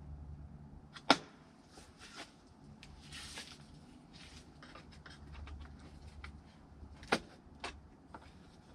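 Plastic heater box parts being worked apart by hand: two sharp snaps, about a second in and near the end, among small clicks and ticks and a brief scraping rustle, typical of retaining clips being popped loose.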